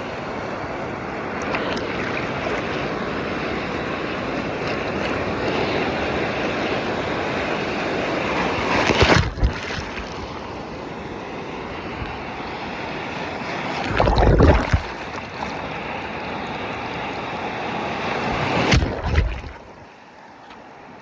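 Rough sea surf breaking, a continuous wash of water with three louder surges about 9, 14 and 19 seconds in, with wind buffeting the microphone.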